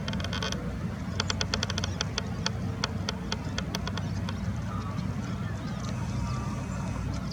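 A waterbird calling in a series of short, harsh notes that come quickly at first and then space out, over a steady low background rumble.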